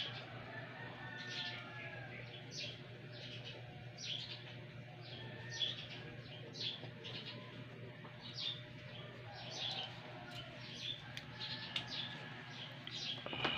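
Birds chirping: short, sharp, high chirps repeating about once or twice a second, over a steady low hum.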